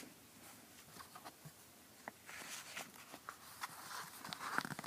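Faint rustling of paper with soft scattered clicks, mostly in the second half: a picture-book page being turned and handled.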